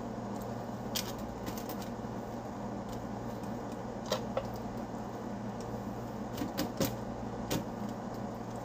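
A few light clicks and taps from a kitchen utensil being worked over a spiral-cut potato while melted butter is brushed on: one about a second in, one around four seconds, and a small cluster near seven seconds. A steady low hum runs underneath.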